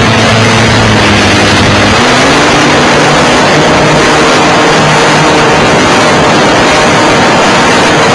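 Nitro-fuelled .91 glow engine of an RC model airplane running at high throttle, heard up close through an onboard camera and buried in heavy wind rush. The engine note shifts up a little about two seconds in.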